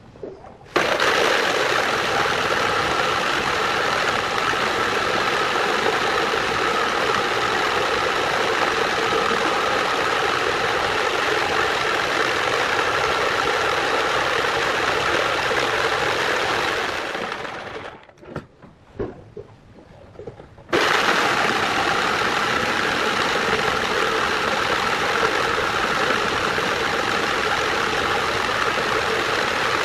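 Angle grinder running at steady speed, a loud even noise with a steady tone in it. It winds down about two-thirds of the way through, stays off for a few seconds with a few small knocks, then is switched on again and comes straight back to full speed.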